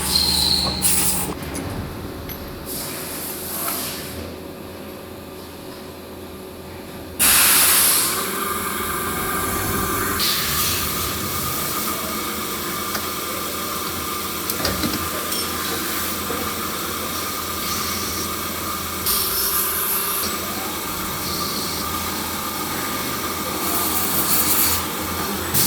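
Workshop machinery running in a valve-parts factory: a steady mechanical din with a faint steady whine, broken about seven seconds in by a sudden loud hiss lasting under a second.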